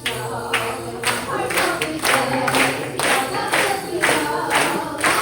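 Live stage music: voices singing over a steady beat of sharp percussive hits, about two a second.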